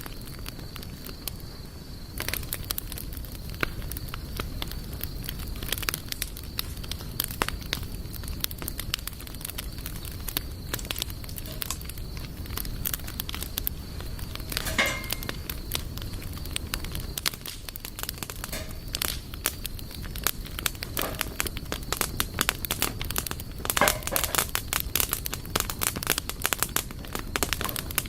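Wood campfire burning, with a steady low rush of the flames and irregular sharp crackles and pops of the burning wood, which come thicker from about two seconds in.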